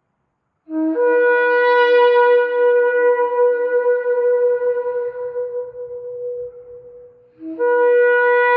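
Shofar blown in two long blasts. Each starts on a brief lower note and jumps up to a held higher note. The first blast lasts about six seconds and fades away; the second begins near the end.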